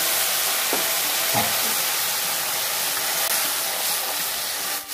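Ground tomato purée sizzling steadily in hot oil with whole spices in a kadai, just poured in and steaming. A wooden spatula stirs it, with a couple of light knocks about a second in.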